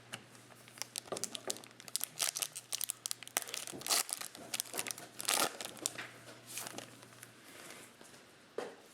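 Trading cards and their packaging being handled: irregular crinkling, rustling and small snaps as cards are pulled and flipped, over a faint low hum that stops near the end.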